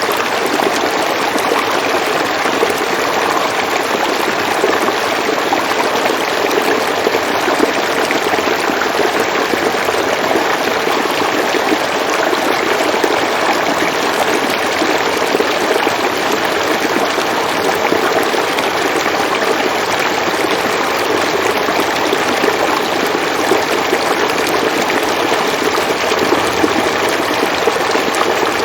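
River water flowing with a steady, unbroken rushing.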